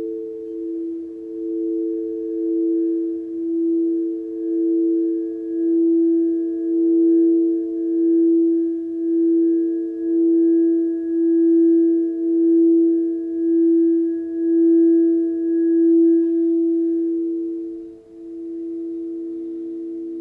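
Sustained pure tones of a sound-healing sleep track, several close pitches layered so the sound swells and fades about once a second. Near the end the sound dips briefly and the tones change, a lower one coming in.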